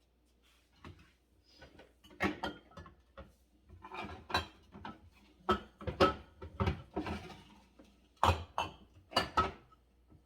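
Condiment bottles and food containers knocking and clattering as they are put onto refrigerator shelves, a quick irregular series of bumps that is busiest over the second half.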